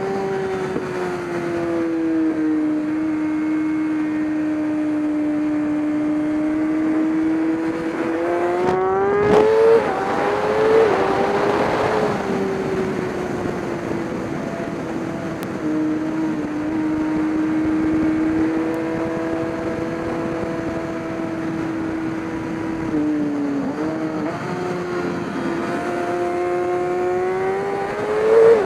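Race car engine running at a steady high pitch. The pitch climbs and breaks about nine seconds in, under a brief rush of noise, then settles. It climbs again near the end.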